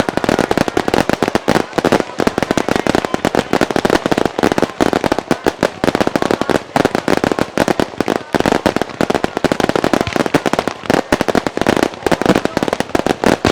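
Aerial fireworks in a rapid barrage: dense, overlapping bursts and bangs, many each second without a break, with crackle between them.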